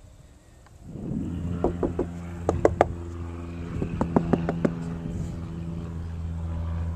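A low, steady mechanical hum, like an engine or motor running, starts about a second in. Several sharp clicks or knocks fall within its first few seconds.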